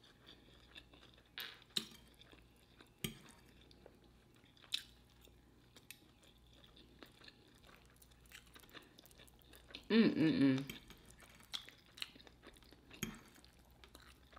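Close-miked chewing and eating, with scattered sharp clicks and smacks. A short voiced sound comes about ten seconds in.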